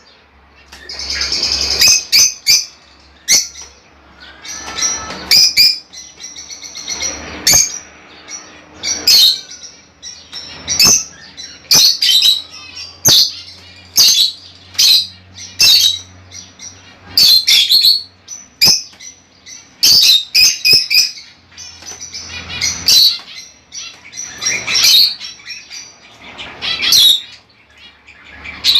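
Budgerigars chirping and calling: short, sharp, high-pitched calls coming one after another at an irregular pace.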